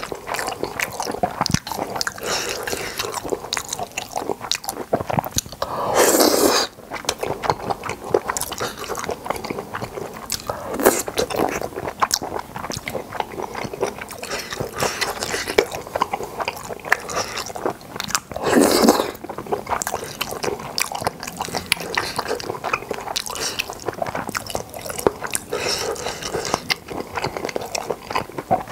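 Close-miked mouth sounds of someone eating boneless chicken feet and glass noodles: steady wet chewing with small crunchy clicks, broken by a few louder noises lasting under a second.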